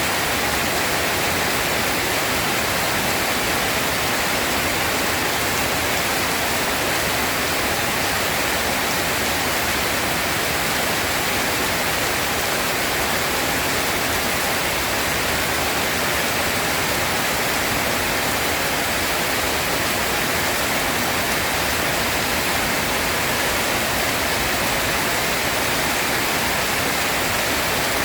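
Steady heavy rainfall, an even hiss with no thunder and no let-up.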